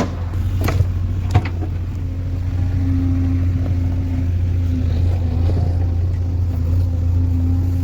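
Heavy diesel engine running steadily with a deep drone, getting a little louder about two seconds in. Two sharp knocks come in the first second and a half.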